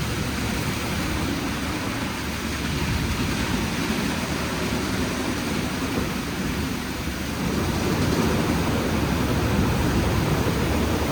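WashTec SoftCare² Pro rollover car wash machine running through its wash cycle: a steady rush of water and machinery, a little louder about seven seconds in.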